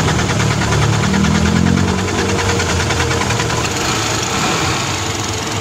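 Mitsubishi 4M50 four-cylinder diesel engine running steadily, with an even diesel clatter.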